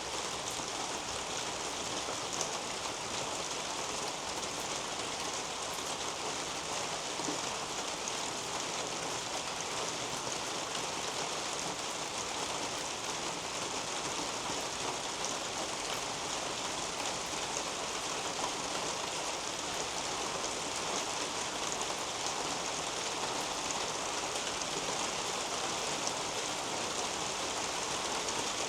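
Steady rain falling on the leaves of a garden canopy, an even patter with scattered single drops ticking through it.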